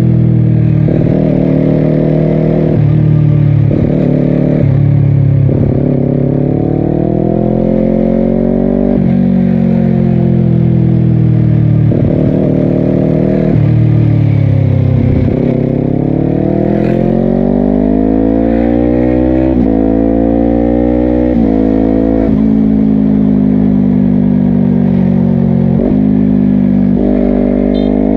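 Honda CBR250RR parallel-twin engine through a Yoshimura exhaust, revving up and down while riding. The pitch climbs and falls repeatedly, with several sudden steps from quick gearshifts.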